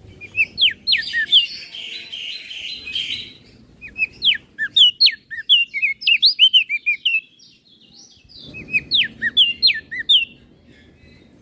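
Crested white-eye (opior jambul) singing fast runs of sharp, high, down-slurred whistled notes, with a short pause past the middle before the song picks up again.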